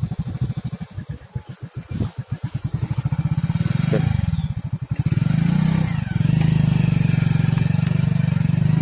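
Motorcycle engine running with a pulsing low beat, dipping at low revs early on, then picking up and settling into a steady hum from about five seconds in.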